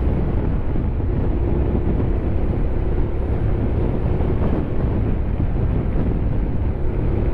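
Honda X-ADV 750's parallel-twin engine running steadily under way as the bike climbs, mixed with wind rush on the microphone.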